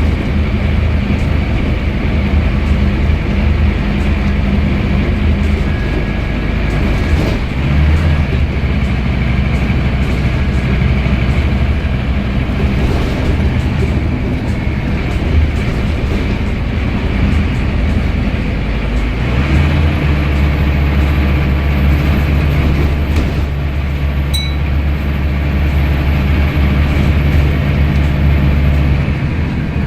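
Scania N230UD bus's diesel engine and ZF Ecomat automatic gearbox heard from on board while the bus drives, with a steady low engine note and a steady higher whine above it. The engine note shifts twice, about seven and a half and about nineteen and a half seconds in.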